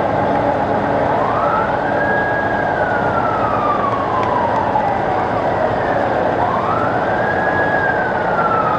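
A siren wailing twice: each time it rises quickly to a high pitch, holds briefly, then falls slowly over several seconds. Under it is steady background noise.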